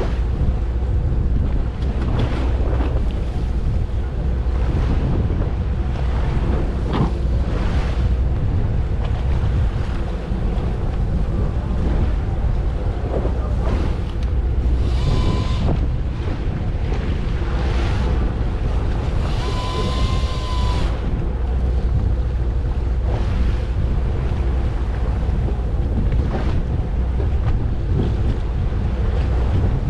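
Wind buffeting the microphone over the steady low rumble of a fishing boat at sea. About halfway through come two short higher-pitched sounds, the second longer than the first.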